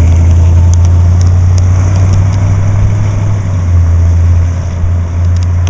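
1969 Oldsmobile Cutlass 442's 400 V8 engine running steadily with a low drone as the convertible is driven.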